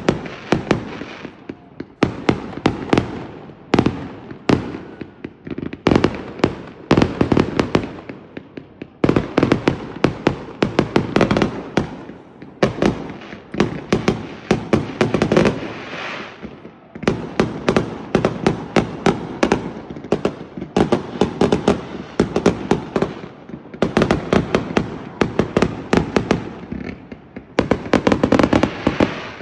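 Fireworks display fired from a boat: a rapid, continuous barrage of shell bursts and bangs, each followed by an echoing tail, coming in dense clusters with brief lulls.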